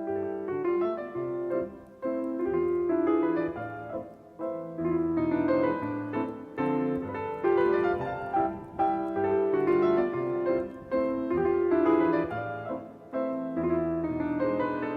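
Background piano music, notes struck one after another in a slow-to-moderate melody over lower chords.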